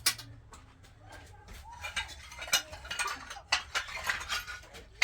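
A run of sharp clinks and scrapes of hand tools on hard material, sparse at first and coming thick and fast from about two seconds in.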